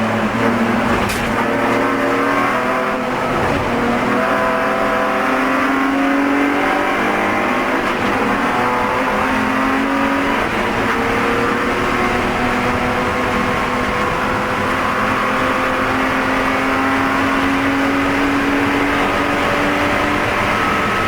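Spec E46 BMW race car's straight-six engine running hard at high revs, heard from inside the car. Its pitch dips and climbs twice in the first few seconds, then holds high with slow rises and falls.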